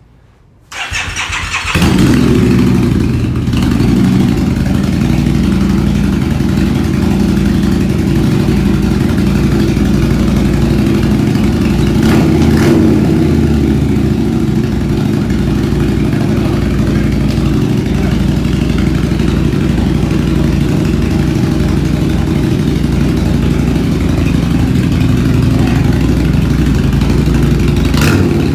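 Custom Harley-Davidson Night Rod's liquid-cooled Revolution V-twin with aftermarket exhaust started with a brief crank about a second in, catching and then idling steadily and loudly.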